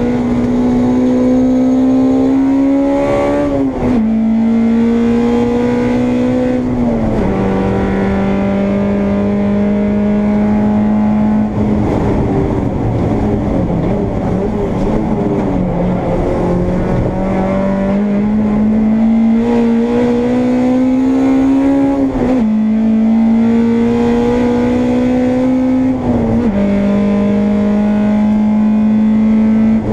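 Honda Integra race car's four-cylinder engine heard from inside the car, running hard at high revs. The pitch climbs slowly and then drops sharply at each of four upshifts, with a stretch of about five seconds in the middle where the note wavers and dips.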